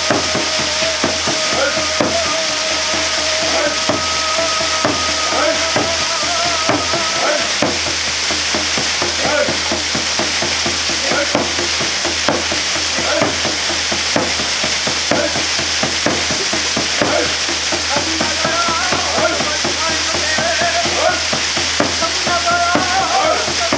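Waterfall pouring down in a steady, loud rushing hiss, with a faint wavering held tone over it for the first seven seconds or so and again near the end.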